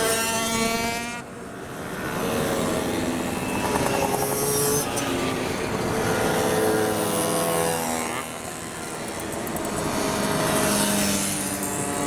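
Racing 50cc two-stroke mopeds going past one after another at high revs, each engine note falling in pitch as it goes by, with short lulls between the passes about a second in and about eight seconds in.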